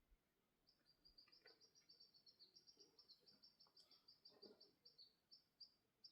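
Faint bird calls: a fast run of short, high chirps, several a second, beginning just under a second in. A few faint knocks sound under it.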